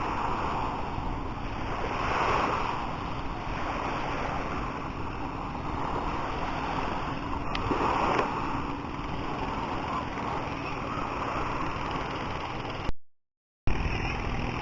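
Sea waves washing onto the beach, swelling and falling every few seconds, with wind on the microphone. The sound cuts out for under a second near the end.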